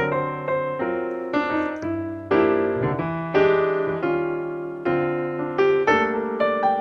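Background piano music: chords and melody notes struck every second or so, each ringing and fading.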